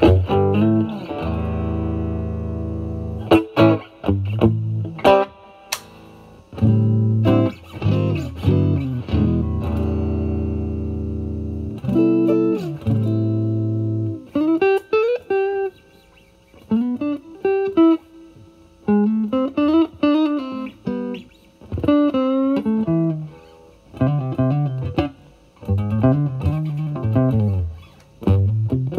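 Strat electric guitar played through a Vertex Steel String Clean Drive MK1 overdrive pedal, gain set at 10, into a Marshall Valvestate amp's clean channel. Sustained, ringing chords come first, then single-note lead lines with string bends from about halfway in.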